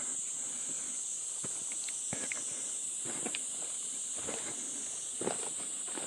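Footsteps on a forest trail, irregular steps about once a second, the strongest about five seconds in, over a steady high-pitched chorus of insects.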